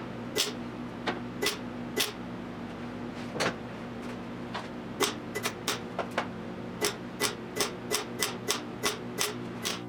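Hammer tapping on sheet steel: sharp separate blows, scattered at first, then coming steadily about three a second from halfway through, over a steady low hum.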